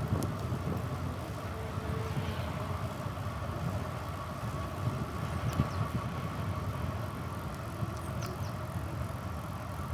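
Steady ride noise from a bicycle in motion: a continuous low rumble of tyres and wind with a steady hum above it, and a few light clicks.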